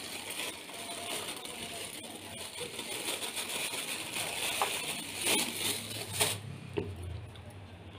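Tutti frutti being added to a bowl of coconut filling: a rustling hiss that cuts off sharply near the end, with a few light clicks and clinks in the second half.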